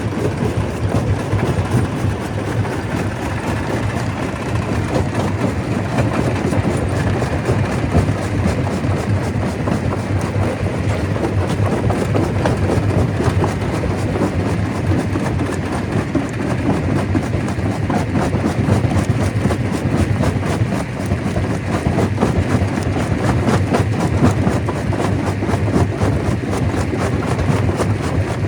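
Stone crusher running steadily: a heavy machine drone with a constant dense clatter of rock being broken.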